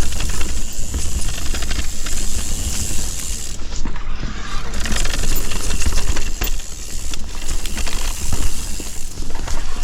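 Mountain bike being ridden over loose shale stones and roots: tyres crunching on the rocky trail, with many sharp clicks and knocks from the chain and frame rattling, over a steady low wind rumble on the microphone.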